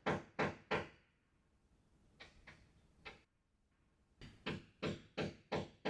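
Quiet, evenly spaced percussive knocks, like a wood block, about three a second; they break off about a second in, with only a few faint hits for roughly three seconds, then start up again.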